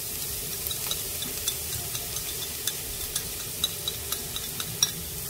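Minced lemongrass sizzling as it goes into hot cooking oil in a frying pan, a steady hiss dotted with sharp clicks and pops.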